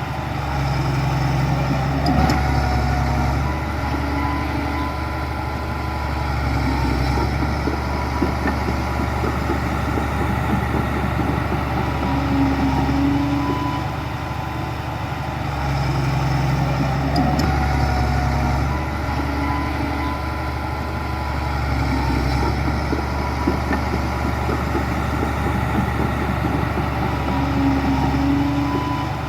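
Heavy diesel earthmoving machinery running steadily, its engine note swelling and easing twice as the load comes and goes.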